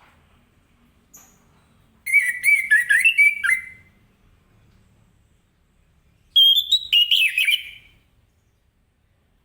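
Orange-headed thrush singing: two loud phrases of quickly varied whistled notes, each about a second and a half long and a few seconds apart, with a faint short note just before the first.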